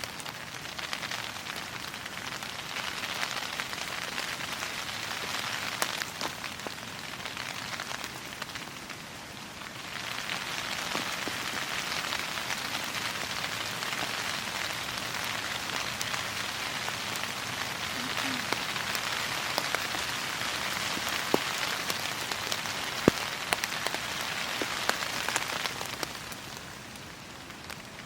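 Steady rain falling, with scattered sharp ticks of single drops. It eases briefly about ten seconds in and drops off near the end.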